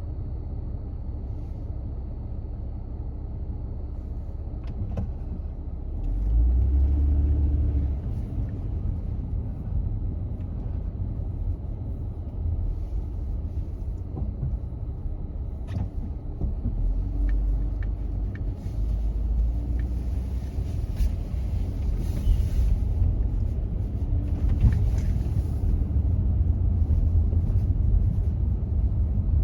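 A car being driven: steady low road and engine rumble. It swells louder for a couple of seconds about six seconds in, and again around seventeen seconds, with a few faint clicks.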